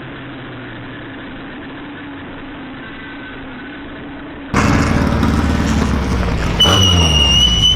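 A race car engine idling steadily. About four and a half seconds in there is an abrupt switch to much louder engine noise, with a pitch that falls and a high steady whine near the end.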